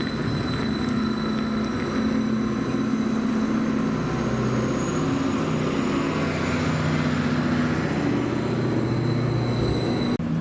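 Greater Anglia Class 755 bi-mode multiple unit moving slowly past along the platform, running with a low hum whose pitch shifts in steps, over a steady rumble.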